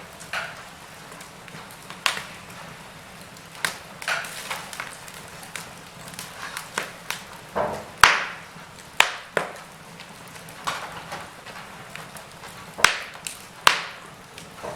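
Wood fire crackling in a fireplace: irregular sharp pops and snaps over a low steady hiss, with the loudest pops about eight, nine and thirteen seconds in.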